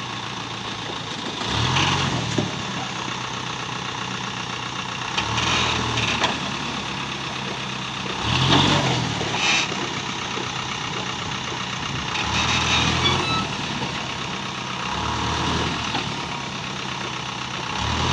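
Dump truck engine running near idle, rising briefly in short revs about every three to four seconds.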